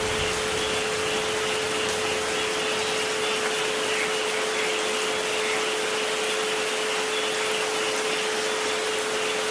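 Steady rain noise, an even hiss, with two steady pure tones at 432 Hz and 528 Hz held under it.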